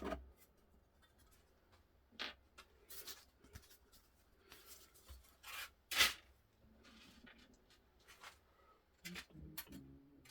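Small scattered clicks and light scraping of clock parts being handled and taken apart by hand, with one sharper click about six seconds in.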